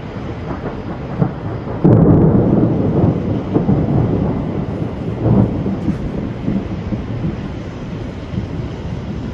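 Thunder rumbling. It swells sharply about two seconds in and rolls on with several louder peaks.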